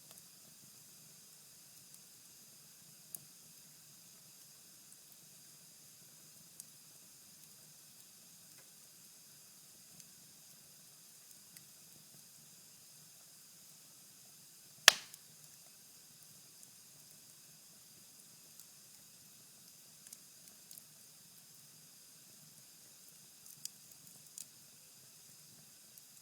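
Cherry-wood fire burnt down to embers in a fireplace, hissing faintly with sparse small crackles and one loud, sharp pop about halfway through.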